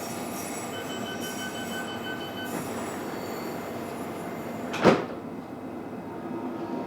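Interior running noise of a London Underground S8 stock Metropolitan line train under way, a steady rumble with a faint high whine for the first couple of seconds. A single sharp knock sounds about five seconds in.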